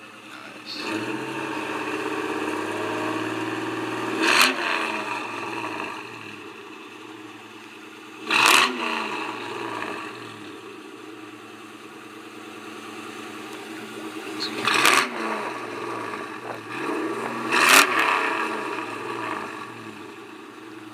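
1998 Ford Mustang GT's 4.6-litre V8 running through an off-road H-pipe and Mac mufflers, revved up for a few seconds about a second in, then blipped sharply four times, settling back to idle between blips.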